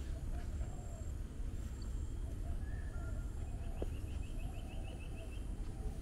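Several birds calling: repeated low, wavering calls, a few short whistles, and in the middle a quick trill of about ten notes. A steady low rumble runs underneath.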